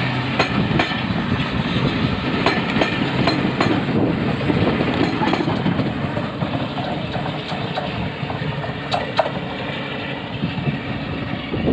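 BR Class 42 'Warship' diesel-hydraulic locomotive's engines running steadily, with occasional sharp metallic clanks and clicks over the engine noise.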